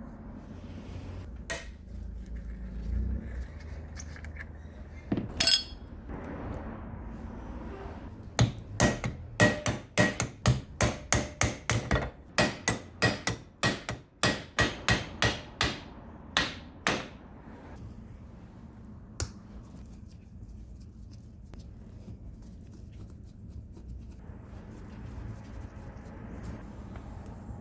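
Hammer strikes in a steady run of about twenty sharp blows, two or three a second, starting about eight seconds in and lasting roughly nine seconds, with a few single knocks before and after.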